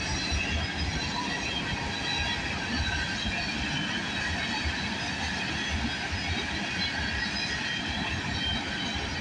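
Freight cars of a CN train rolling past: a steady rumble of steel wheels on rail, with a faint high steady ringing above it.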